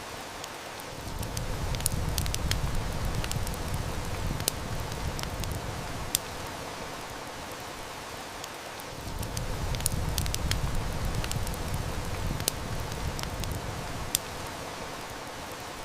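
Heavy rain hissing steadily with a wood fire crackling and snapping, a few louder pops among the clicks. A low rumble swells in twice and fades, each time for about five seconds.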